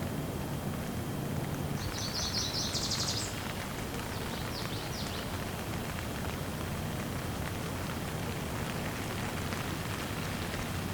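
Steady rain falling. About two seconds in, a bird gives a short, rapid, high chattering trill, followed a moment later by a few fainter high notes.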